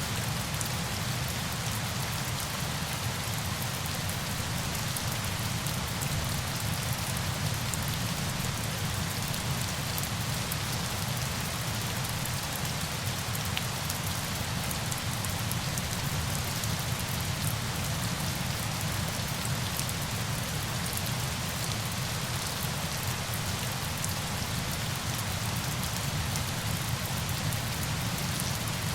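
Steady rain falling, an even hiss with faint scattered drop ticks and no change in level.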